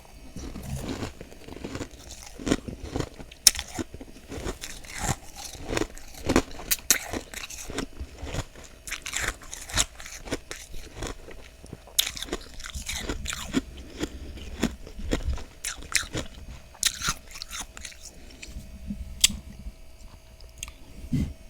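Close-miked biting and chewing of soft freezer frost: a dense, irregular run of crisp crunches and crackles.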